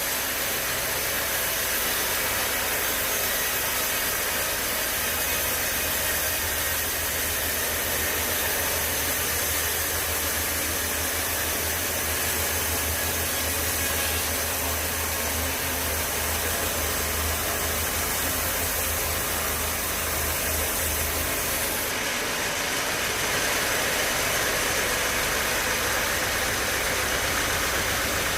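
Sawmill machinery running steadily with a constant mechanical noise and a low hum. The hum strengthens for a while, then the sound changes about three-quarters of the way through.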